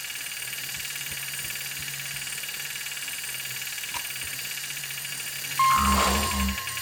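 Quiet cartoon background score, then, a bit over five seconds in, a toy space rocket's electronic sound effect starts: a loud steady beep-like tone over a pulsing low rumble.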